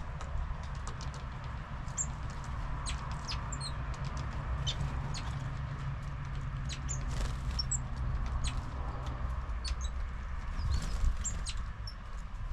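Small songbirds at a garden feeder: scattered short, high call notes and light taps and pecks, over a steady low rumble.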